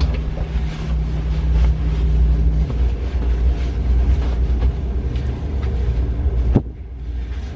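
Low, steady rumble of a moving vehicle, with a sharp click about six and a half seconds in, after which the sound drops quieter.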